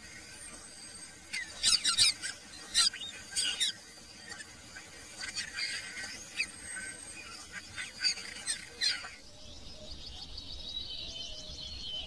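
Birds calling: clusters of sharp, sweeping high chirps and whistles, in two bursts. About nine seconds in they give way abruptly to a fainter, rapid high trill.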